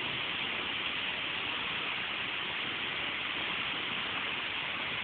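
Waterfall rushing with a steady, even roar, the noise heaviest in the upper range.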